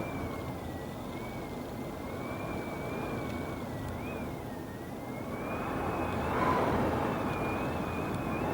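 Strong gusting wind rushing, swelling to a louder gust about six seconds in, with a thin high whistle that wavers up and down in pitch throughout.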